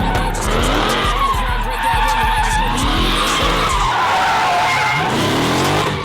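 Cars drifting: engines revving up and down repeatedly while the tyres squeal.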